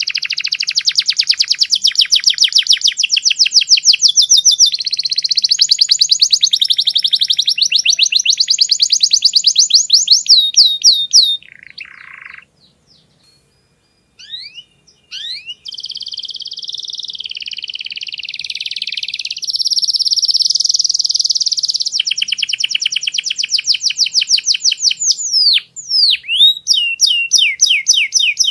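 Domestic canary singing long, fast trills of repeated high notes that change from phrase to phrase. There is a pause of about three seconds near the middle, then the song starts again.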